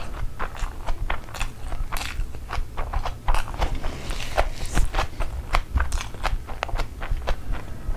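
Close-miked chewing of a mouthful of Schezwan fried rice and chicken curry: a quick run of wet clicks, lip smacks and soft crunches, several a second.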